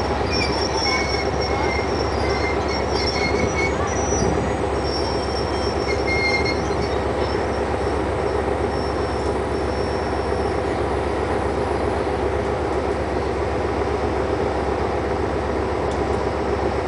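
Passenger coaches of a diesel-hauled train rolling past on a curving track, the wheels running steadily on the rails. Short high-pitched wheel squeals come and go during roughly the first ten seconds, then only the steady rolling noise remains.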